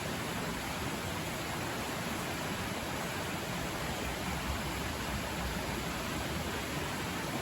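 River flowing nearby, a steady rushing of water that is loud and even throughout.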